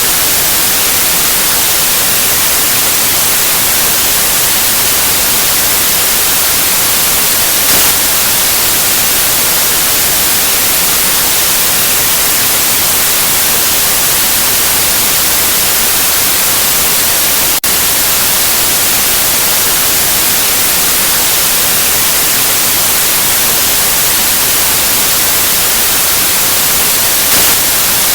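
White noise: a steady, loud, even hiss, brightest in the treble, with one momentary dropout about two thirds of the way through.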